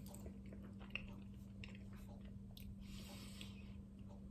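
A person faintly chewing a bite of a soft steamed siopao bun: scattered small mouth sounds and a brief breath about three seconds in, over a steady low hum.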